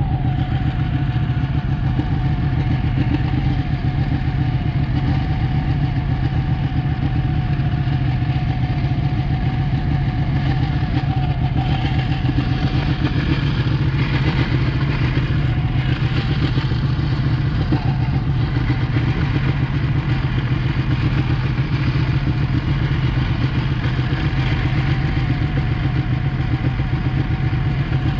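Ducati 1199 S Panigale's 1198 cc Superquadro L-twin engine running steadily at an even, fairly constant engine speed, with no big revs.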